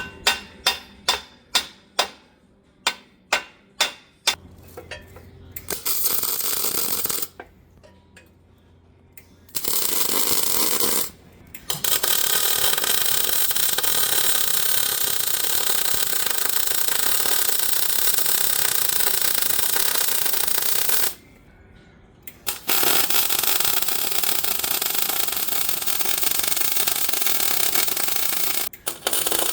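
About ten sharp metal strikes in quick succession, then arc welding on the hay rake's steel plates in several passes. Each pass is a steady hiss that starts and stops abruptly, the longest running about nine seconds.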